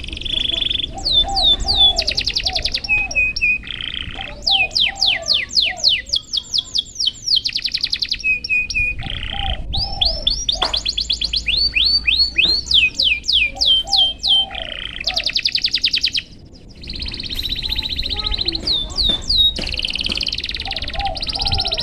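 Domestic canary singing a long, loud song: trills of fast downward-sweeping notes alternating with buzzy rolls, breaking off briefly about sixteen seconds in.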